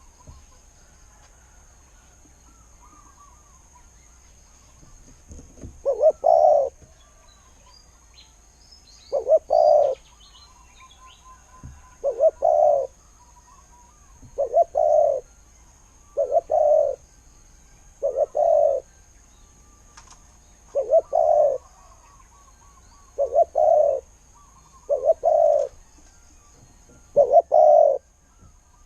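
Spotted dove cooing: about ten short, low coos, one every two to three seconds, starting some six seconds in.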